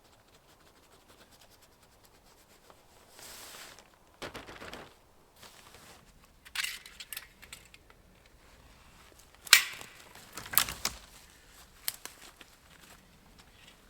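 Duct tape being pulled off the roll and torn in several short rips, with crinkling and handling noise, one sharp loud rip about two-thirds through.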